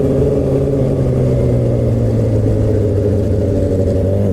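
Straight-piped Suzuki GSX-R600 inline-four exhaust running under way, its pitch easing slowly down.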